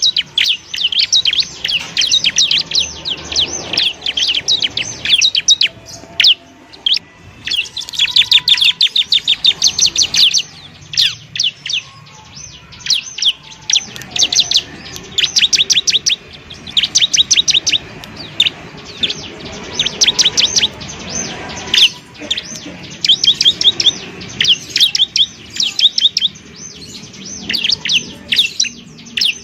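Bar-winged prinia (ciblek) singing: rapid runs of sharp, high chirps, many per second, in bursts of a few seconds separated by brief pauses.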